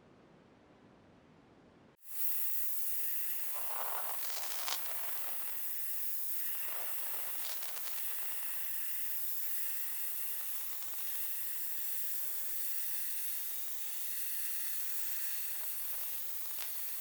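Steady hiss of spray painting, starting abruptly about two seconds in, with a few brief clicks and knocks over it.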